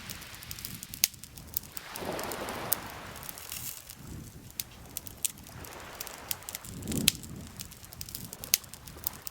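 Campfire crackling, with frequent sharp pops and snaps of burning wood. Under the crackle, lake water laps gently in two soft swells, one about two seconds in and one near seven seconds.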